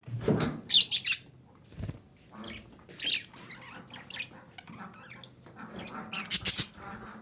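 Female budgerigar calling: sharp, high chirps and squawks in short bursts, loudest near the start and again near the end, with softer chatter between and a couple of dull thumps early on.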